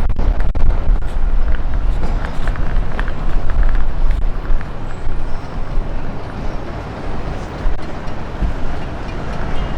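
Outdoor city street ambience with wind buffeting the microphone in gusts, a heavy low rumble rising and falling.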